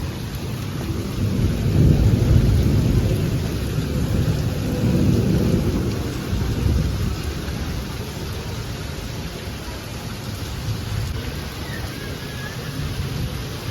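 Heavy rain falling steadily, with deep rumbles of thunder swelling loudest about two seconds in and again around five seconds.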